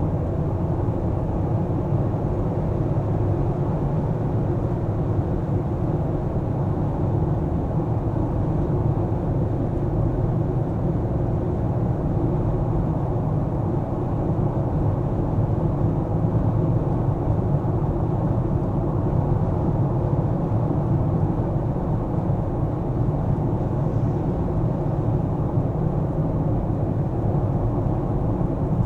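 A car driving, heard as a steady low rumble of tyres on the road and engine, with no sudden events.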